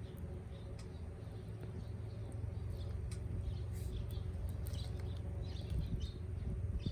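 Wood campfire crackling with scattered sharp pops over a steady low rumble, with birds chirping in the background.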